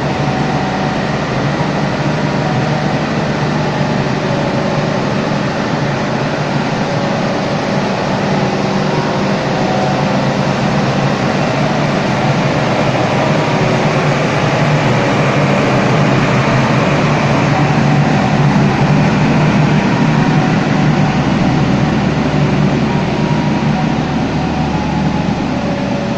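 Diesel train running with a steady low hum and a drone of machinery, growing a little louder partway through as a passenger train pulls slowly away alongside.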